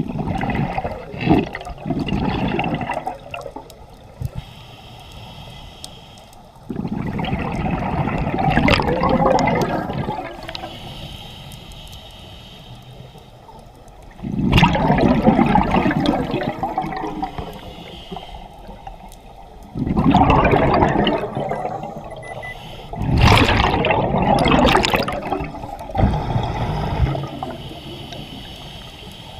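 Scuba diver's exhaled bubbles rushing out of the regulator in repeated bursts, a few seconds apart in time with the diver's breathing, with a quieter hiss between breaths.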